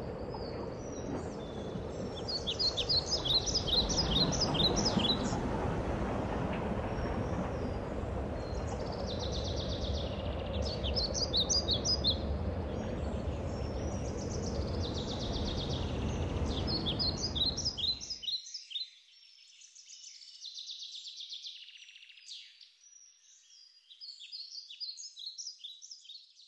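Birds chirping in repeated short series over a steady low background rumble. About eighteen seconds in, the rumble cuts off abruptly, leaving the birdsong alone and fainter.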